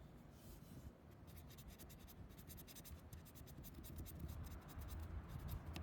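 Felt-tip marker being scribbled on a wire's insulation to label it: a fast run of short, faint scratchy strokes starting about a second in.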